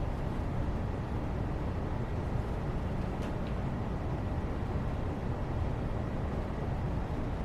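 Steady low rumbling background noise, even throughout, with two faint light clicks about three seconds in.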